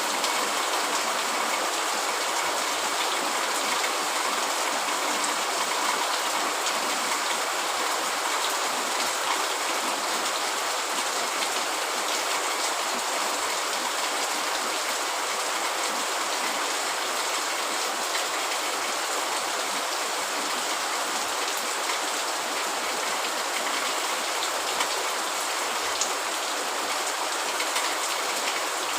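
Steady heavy rain falling on a tent, a constant hiss of drops.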